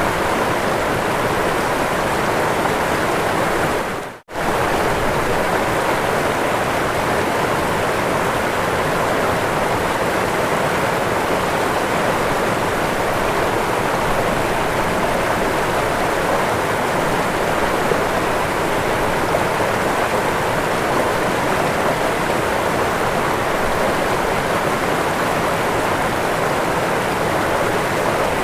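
Waterfall rushing steadily, an even dense roar of falling water. About four seconds in it fades out to near silence for a split second and comes straight back.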